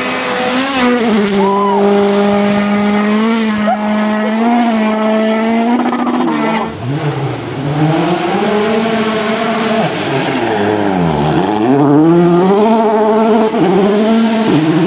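Turbocharged four-cylinder World Rally Car engine at high revs. The pitch holds nearly steady for about six seconds, then drops and climbs again with a deep dip and quick gear changes near the end.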